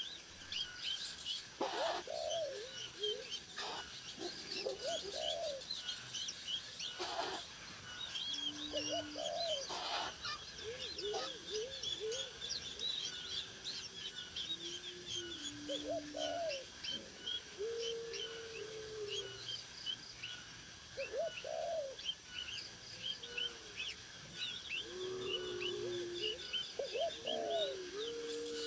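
Birds chirping in a dense run of quick, high calls, mixed with repeated lower, cooing calls. A few short knocks or rustles are heard near the start and around the middle.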